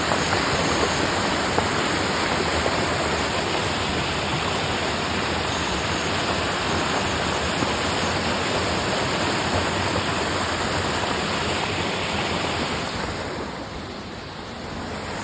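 Rushing water of a flooded creek: a steady, loud rush that eases off near the end.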